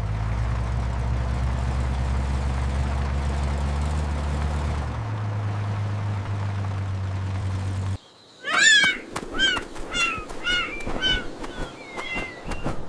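A steady low hum that shifts in pitch about five seconds in and cuts off near eight seconds, followed by a run of short bird-like chirps mixed with clicks.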